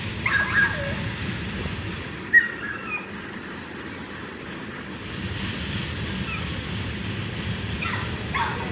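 Freight train passing at a distance, a steady rumble of its cars rolling along the rails. A few short bird chirps sound over it near the start, about two and a half seconds in, and near the end.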